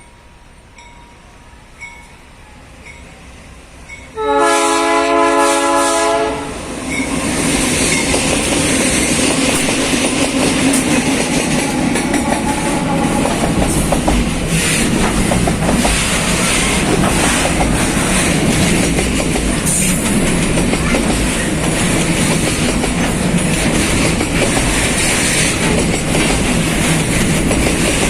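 GE C30 diesel locomotive sounding its multi-note horn once, for about two seconds, about four seconds in. Then a loud rumble as the container train passes close, with wheels clicking over the rail joints.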